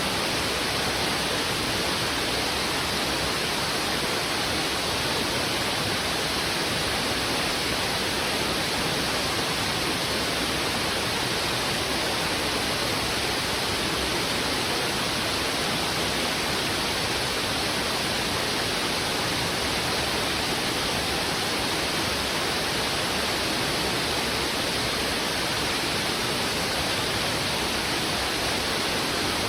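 Heavy river water rushing steadily over rocks, an even, unbroken roar of flowing water.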